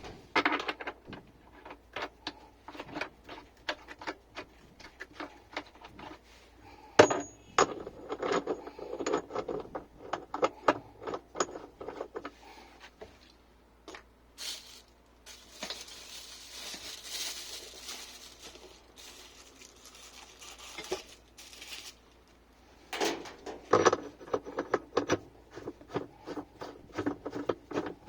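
Hand tools working metal nuts on a washing machine's inner tub: runs of rapid clicks and scattered metal knocks and clinks. A few seconds of hissing come in the middle.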